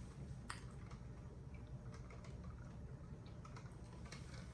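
Faint eating sounds: quiet chewing with a few small mouth clicks or ticks, the clearest about half a second in and again near the end.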